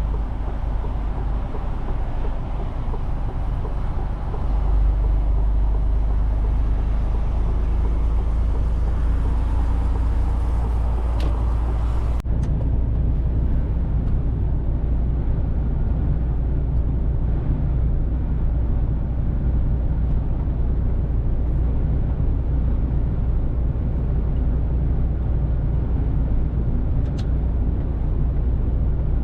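Mercedes-Benz Actros truck on the move: a steady low engine and road rumble. A sharp click about twelve seconds in, after which the high hiss drops away.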